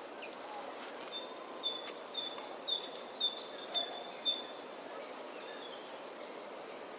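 A songbird singing a quick series of thin, clear high notes, alternating between two pitches about four times a second, then pausing. A few higher, downslurred notes follow near the end.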